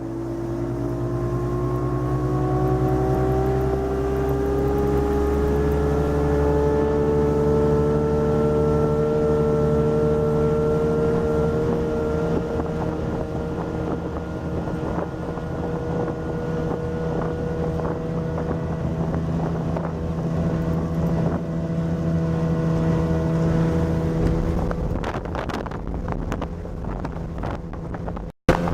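A 250-horsepower Evinrude outboard drives a speedboat up to speed: its note climbs steadily for about the first ten seconds, then holds at a steady high cruise. Wind on the microphone and rushing water run under it, and the sound briefly cuts out just before the end.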